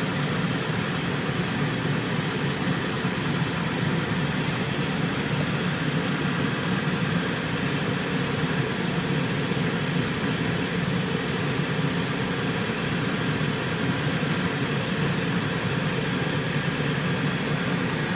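Steady engine and road noise of a ranch vehicle driving along, an even rumble that holds level without change.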